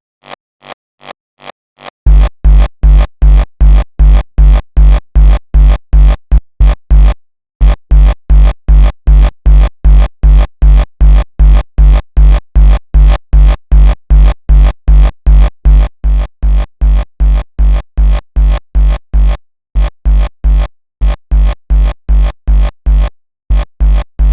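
Raw hardstyle kick drum looping in a steady four-on-the-floor pattern, just under three hits a second, each hit a heavy, deep bass thump with a distorted tail. Faint ticks keep the same beat for the first two seconds, then the loud kicks come in, dropping out briefly a few times.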